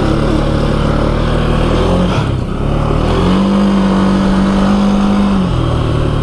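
ATV engine running under way on a trail. The engine note dips about two seconds in, then rises and holds higher for about two seconds before easing back down.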